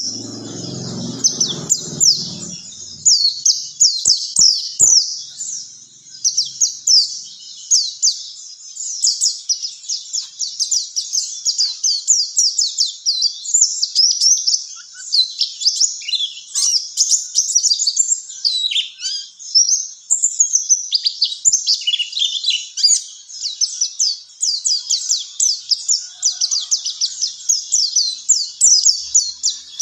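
Recorded song of a white-eye (pleci): a long, unbroken run of quick, high, sweeping chirps and trills with hardly a pause.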